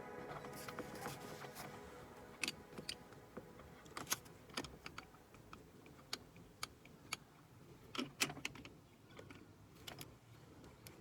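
Faint, irregular sharp clicks and light taps of small hard objects, one or two a second, as music fades out at the start.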